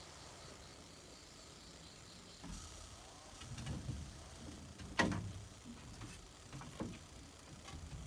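Handling sounds and a few knocks, the loudest a single sharp knock about five seconds in, with two smaller knocks near the end.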